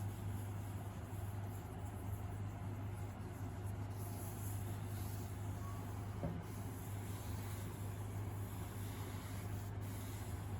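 A cloth pad charged with shellac and linseed oil rubbing over the finish of a rosewood piano case, a faint soft rubbing heard over a steady low hum.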